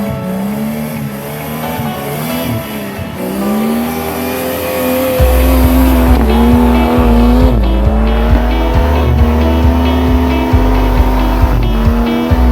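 Off-road 4x4 engine revving hard, its pitch rising in surges and then held high and steady under load. Background music with a heavy bass beat plays along, coming in strongly about five seconds in.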